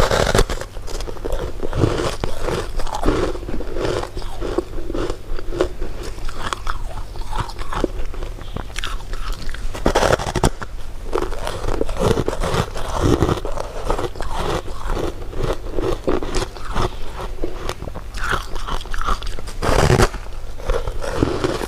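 Close-miked eating sounds: a person biting and chewing crunchy dessert food, with a steady stream of small crunches and sharper, louder bites just after the start, about ten seconds in and near the end.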